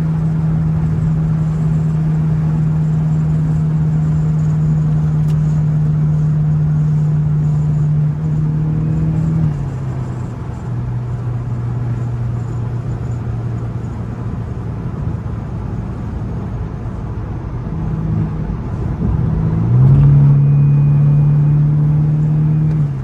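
BMW 428i (F32) turbocharged four-cylinder engine with an aFe aftermarket intake, running at steady revs while driving. Its pitch drops about nine seconds in as it eases off, then it rises and gets louder near the end as the car accelerates.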